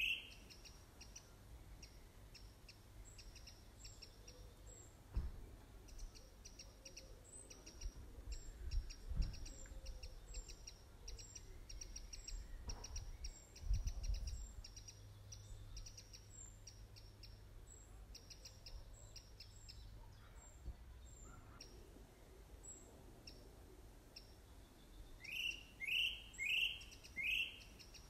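Birds chirping: a rapid run of short, high chirps, and near the end four loud rising whistled notes. A few low thumps, like wind or handling on the microphone, come in about a third and halfway through.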